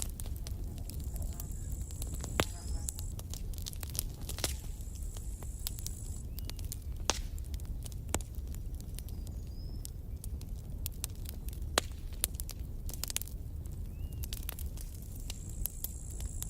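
Campfire crackling, with frequent sharp pops of burning wood over a steady low rumble of flames. A thin high hiss comes and goes a few times.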